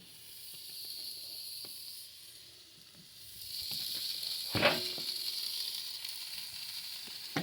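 Hamburger patties sizzling on a hot grill, the hiss swelling up twice. About two thirds of the way through there is one sharp clank.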